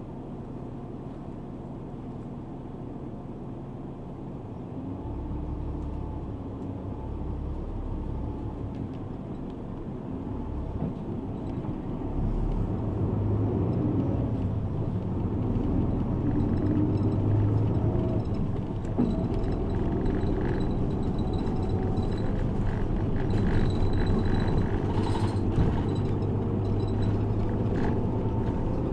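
Route bus engine and road noise heard from inside the passenger cabin, a steady low rumble that grows louder about five seconds in and again about twelve seconds in as the bus drives on.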